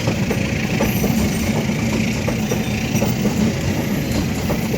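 Passenger train carriages rolling past close by: a steady rumble of steel wheels on the rails with many small clicks, over a steady hum.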